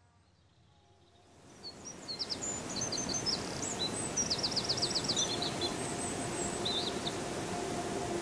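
Outdoor ambience fading in from silence: a steady background hiss with small birds chirping and twittering, including a quick run of about eight repeated notes around the middle. A faint held musical tone comes in near the end.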